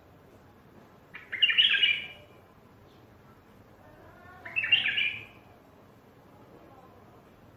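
A wild bulbul singing two short warbled phrases, each about a second long, about three seconds apart.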